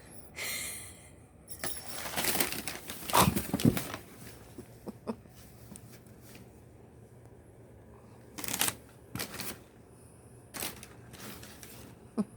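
Crinkly packing paper rustling in several short bursts as a cat plays in it, the longest burst coming about two seconds in.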